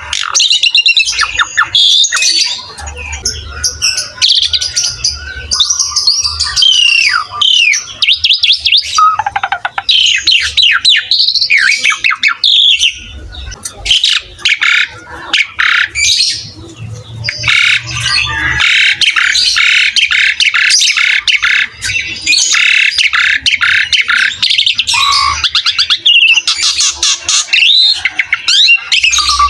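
Asian pied starling (jalak suren) singing energetically, a loud, varied song of gliding whistles and fast runs of rapid repeated notes.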